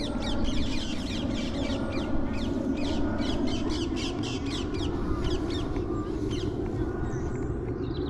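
A flock of birds chirping and calling together in a dense run of short, quick, falling notes, over a steady low rumble.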